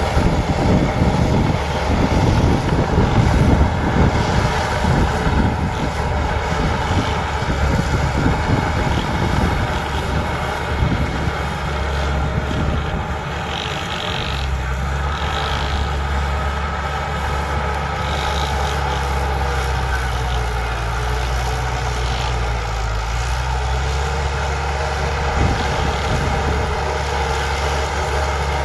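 Bulldozer's diesel engine running under work, with heavy rattling and knocking for roughly the first ten seconds, then running more steadily.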